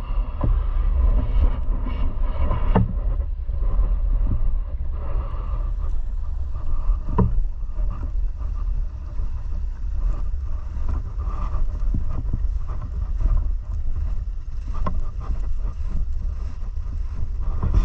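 Steady low rumble with scattered sharp clicks and knocks, the clearest about three and seven seconds in.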